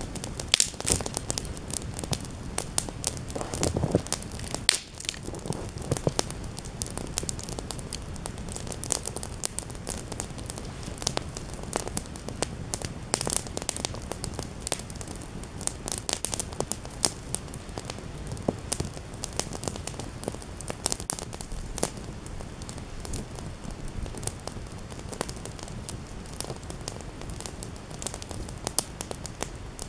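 Small campfire crackling, with many irregular sharp snaps and pops over a soft hiss.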